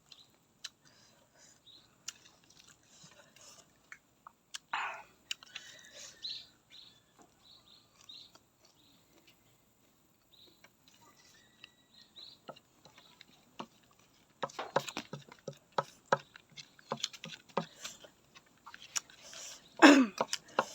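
Close-up chewing and crunching of raw vegetables. It is sparse and quiet at first, then turns into a run of loud, crisp crunches from about two-thirds in.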